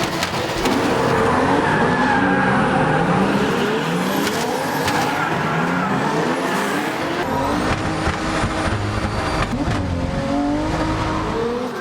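Engines revving hard in repeated rising sweeps, overlapping one another, with tires squealing as vehicles drift.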